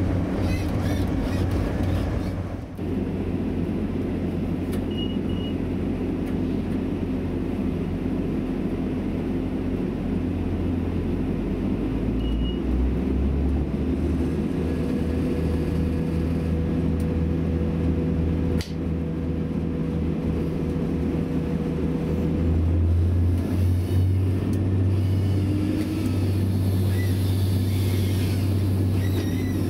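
A Class 175 diesel multiple unit's underfloor Cummins diesel engine running with a steady hum, heard from inside the carriage. About two-thirds of the way through it grows louder as the train pulls away.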